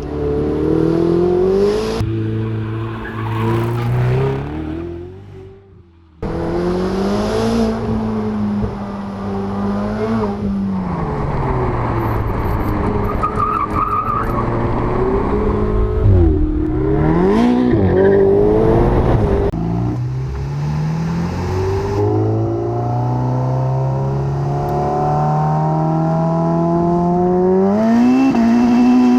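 Sports car engine and exhaust under hard driving, the revs climbing and dropping repeatedly with sharp changes between takes. Near the end the revs climb steadily for several seconds in one long pull.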